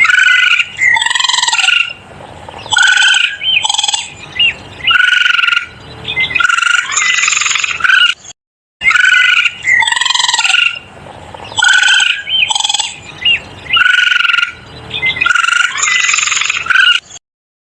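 A series of varied, pitched animal calls in short bursts, some gliding up and down. The same sequence of about eight seconds plays twice with a brief break between.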